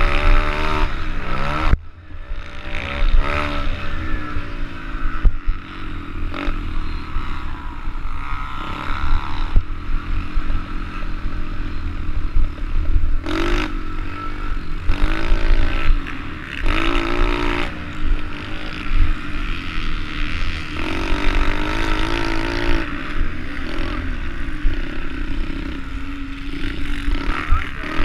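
Small four-stroke pit bike engine racing, revving up and falling off again and again as the throttle is worked, with a steady wind rumble on the microphone.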